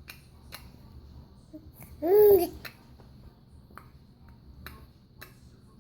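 A baby makes one short vocal sound about two seconds in, copying his mother: a pitched 'ooh' that rises and falls over about half a second. Faint sharp clicks are scattered around it.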